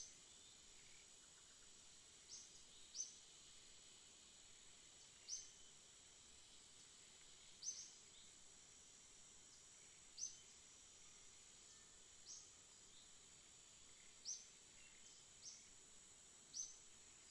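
A bird repeating a single short, sharp, high chirp every couple of seconds, about a dozen times. Under it runs a steady high-pitched insect-like drone.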